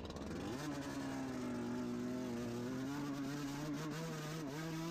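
Dirt bike engine under way: the revs drop and pick up again in the first half-second, then hold steady, with a few small wobbles near the end.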